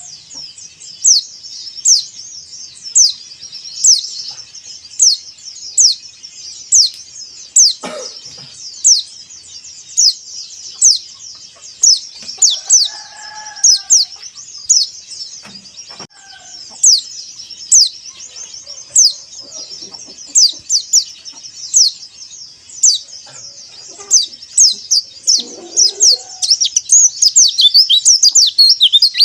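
White-eye (pleci, Zosterops) giving sharp, high, falling chirp calls about once a second, quickening into a rapid run of chirps near the end. A rooster crows faintly in the background around the middle.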